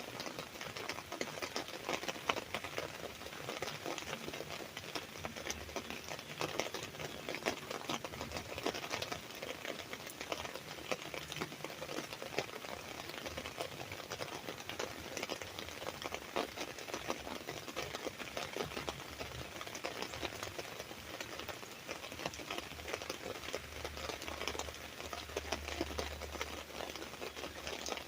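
Steady rain pattering on an umbrella: a dense, even stream of small drop taps on the fabric.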